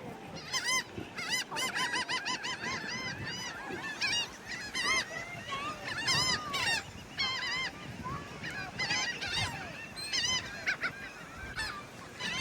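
A flock of seagulls calling, many short calls repeating and overlapping, as they crowd in to be fed bread.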